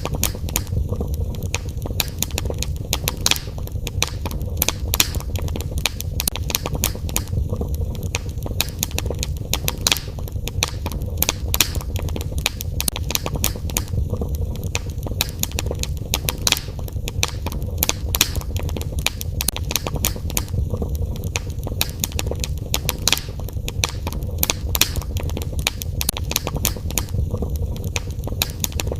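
Fire burning in a fireplace, crackling with frequent, irregular sharp pops over a steady low rumble.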